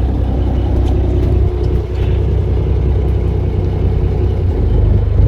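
Fishing boat's engine running steadily with a low, pitched hum; its note changes about four and a half seconds in.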